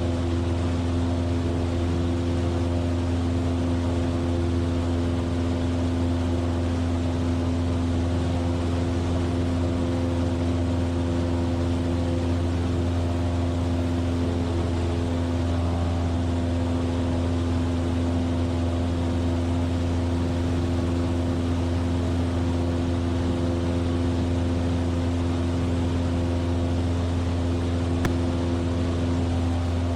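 Cessna 172F's Continental O-300 six-cylinder piston engine and propeller droning steadily in flight: an even low hum with several steady tones above it.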